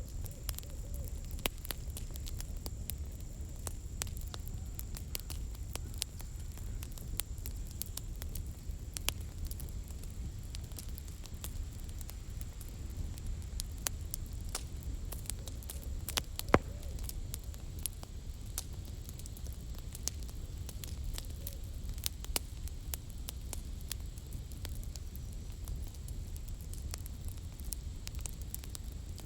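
Campfire of burning firewood crackling, with irregular snaps and pops over a steady low rumble. One pop just past the middle is clearly louder than the rest.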